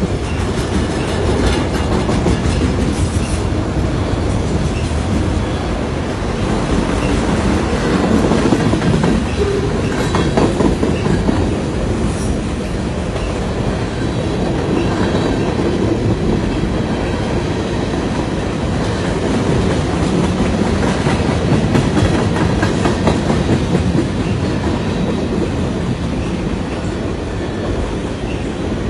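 CN freight train rolling past. A steady rumble of wheels on rail, with irregular clicking and clatter from the wheels over the track.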